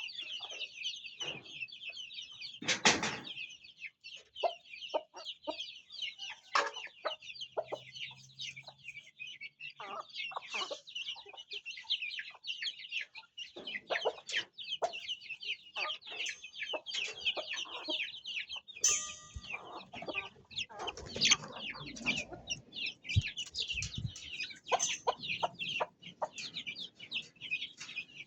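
Many chicks peeping continuously in a dense, high-pitched chorus, with scattered short knocks and taps among them.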